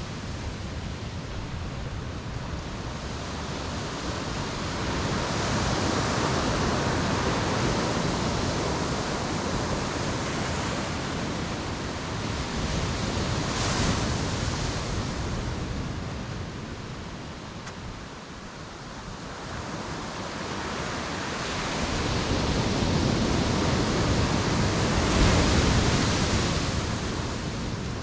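Ocean surf breaking on the shore and washing back, rising and falling in three slow swells, the loudest near the end.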